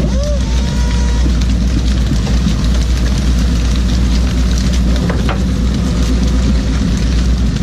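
A fishing boat's engine running steadily with a deep, constant hum.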